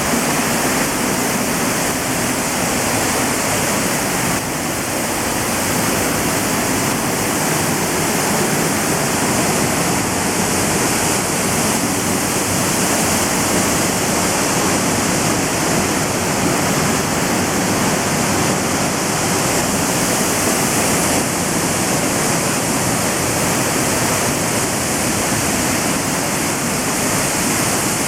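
Middle North Falls, a waterfall, pouring down: a loud, steady rush of falling water.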